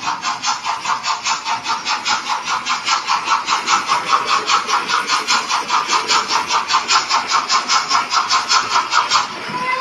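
Steam locomotive chuffing at a steady pace, about five beats a second; the chuffing stops near the end and a whistle tone begins.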